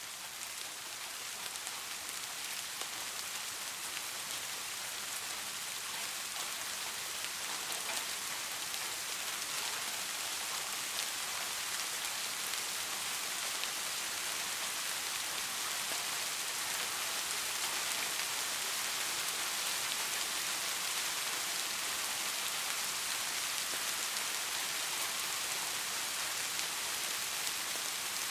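Steady rainfall, an even hiss of many drops with faint individual drop ticks, swelling slightly over the first few seconds and then holding steady.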